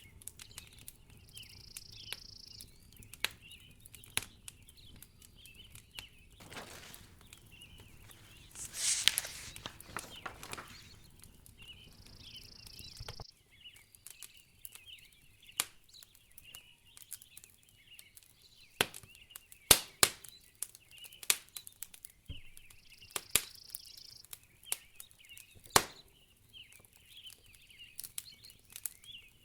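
Wood fire crackling in a fireplace, with frequent sharp pops, over a faint layer of high chirping. A swell of rushing noise runs through the middle and cuts off suddenly.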